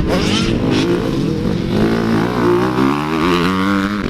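Motocross dirt bike engine revving hard on the track, its pitch climbing from about halfway through as the bike accelerates.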